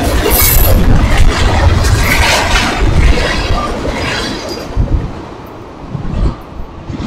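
Tank cars of a CSX freight train rolling past on the rails, the noise fading away about four to five seconds in as the last car goes by.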